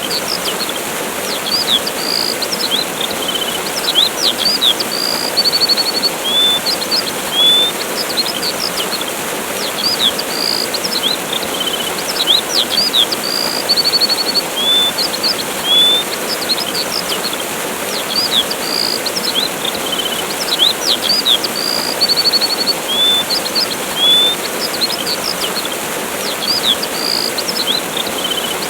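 Steady rushing of a waterfall with small birds chirping over it: short whistled notes, chirps and brief trills. The same run of calls repeats about every ten seconds.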